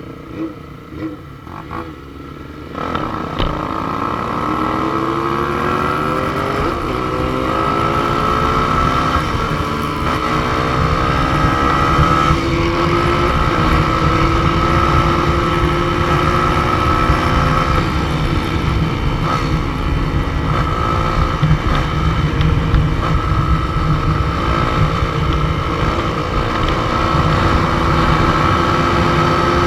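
Motorcycle engine pulled hard from about three seconds in, its pitch climbing and stepping through several gear changes, with heavy wind rush over the microphone.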